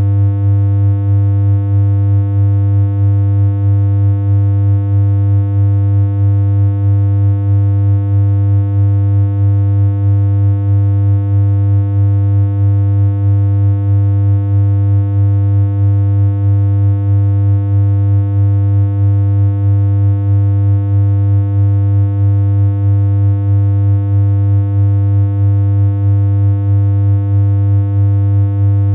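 A steady synthesized electronic hum: one low tone with a buzzy stack of overtones above it, held unchanged, with a slight regular pulse in loudness.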